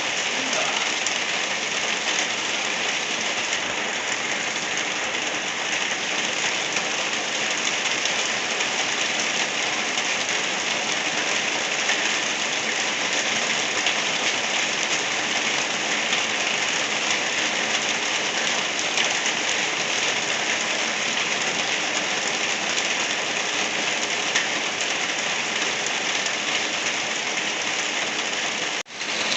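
Steady rain falling, an even, dense hiss with no let-up; it cuts out for an instant about a second before the end.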